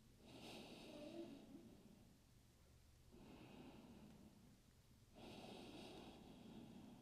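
Faint, slow breathing during a held yoga stretch: three long breaths, each lasting a second and a half to two seconds, with short pauses between them.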